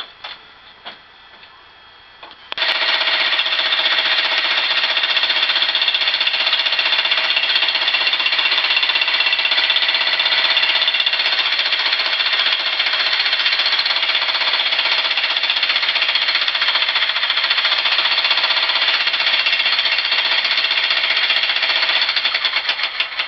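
Jackhammer starts about two and a half seconds in and hammers continuously and loudly for about twenty seconds, then stops near the end. The bit is wedged fast, and this run does not free it.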